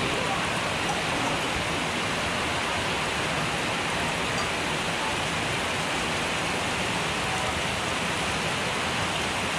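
Steady hiss of heavy rain falling on a corrugated metal roof, unchanging throughout.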